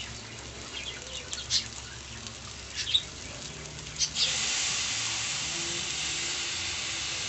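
Pork ribs frying in a hot wok, quiet at first with a few short high chirps, then a steady sizzle starting about four seconds in as patis (fish sauce) goes into the hot pan.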